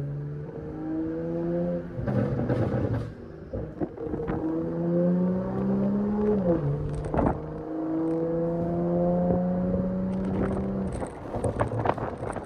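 BMW 540i's B58 turbocharged inline-six with a catless downpipe and straight-piped exhaust, driving in Sport Plus: the engine note climbs under acceleration, drops sharply with a gear change about six and a half seconds in, then holds steady. Crackling bursts break in about two seconds in, after the shift and again near the end, the burbles added in the tune.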